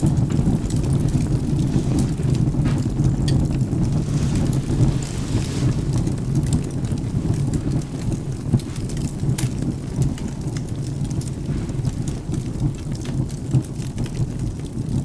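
Ambient rain and thunder: a steady low rolling rumble under rain, with scattered small crackles of a wood fire.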